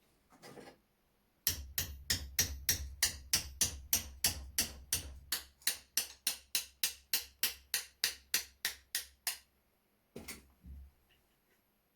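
A hammer tapping a steel punch in quick, regular strikes, about four a second for some eight seconds, driving the remains of a stuck screw out of an old flintlock shotgun's action; two more taps follow shortly after a pause.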